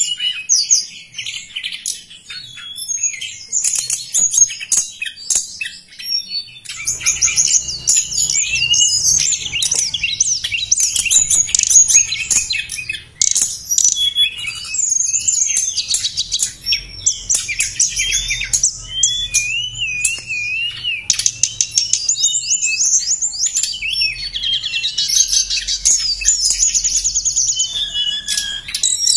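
Recorded song of a tledekan gunung, a continuous stream of rapid high chirps, fast trills and wavering whistles, played as a lure and master recording for songbirds. The song changes abruptly several times, at about 7, 13 and 21 seconds, as if spliced, over a faint low hum.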